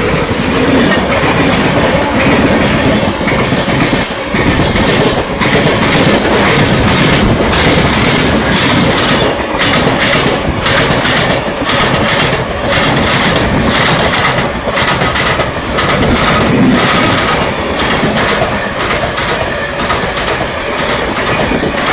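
Train running on the rails, loud and continuous, with the wheels clattering over rail joints in an uneven run of clicks.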